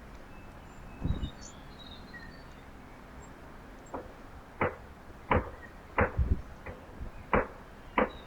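A series of sharp knocks and taps, about eight in the last half, with a duller thump about a second in; faint bird chirps behind.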